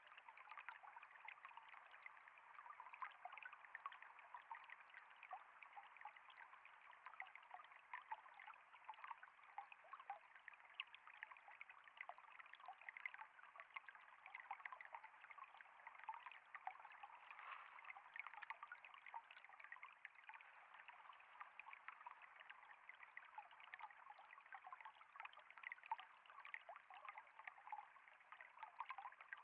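Water trickling and flowing steadily, a faint, continuous fine babble without pauses.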